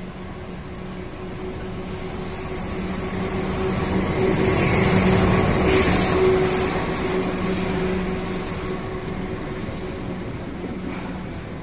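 A train passing close by: it grows louder to a peak about five to six seconds in, then fades, over a steady hum. As it passes there is a quick run of wheel clacks over the rail joints.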